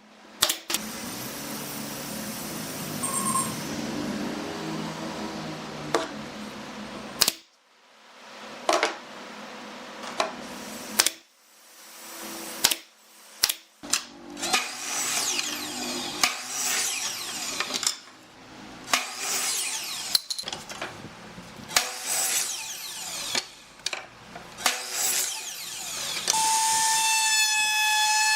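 Woodworking tool sounds in a string of short cut-together clips: power tools running and cutting wood, with sharp knocks between them. About two seconds before the end, a steady whistle-like tone starts.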